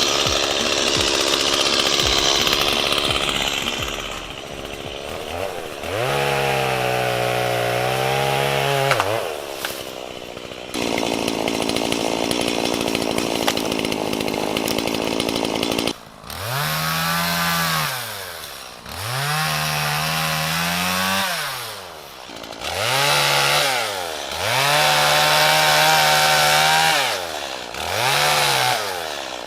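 Chainsaw cutting wood, with loud cutting noise at first. In the second half the engine revs up and drops back several times in a row, a couple of seconds each time.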